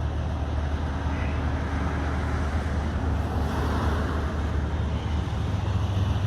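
Steady low rumble of motor-vehicle and traffic noise, even throughout with no distinct events.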